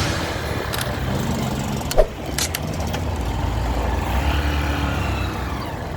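Motorcycle engine running at a steady low speed, with a single sharp click about two seconds in.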